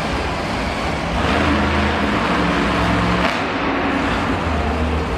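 Monster truck engine running loud, its pitch and loudness changing as it is revved up and eased off, over the wide reverberant noise of the arena.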